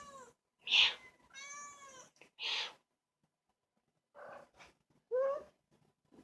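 Kittens meowing: several short, high-pitched mews, each one separate, with a pause of about a second and a half in the middle.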